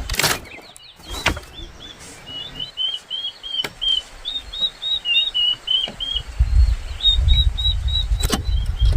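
A bird chirping in runs of short, high, repeated notes, about three a second. A few sharp knocks and a low rumble join it near the end.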